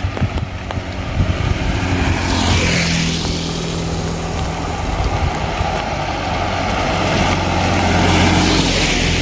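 Vehicles driving past on a wet road: tyre hiss swells and fades about three seconds in and again near the end, over a steady low engine hum.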